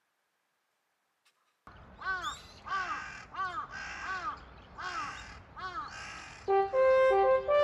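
Crow cawing repeatedly, a run of several harsh caws about half a second apart. The caws start after a silent stretch, and background music with steady horn-like notes comes in near the end.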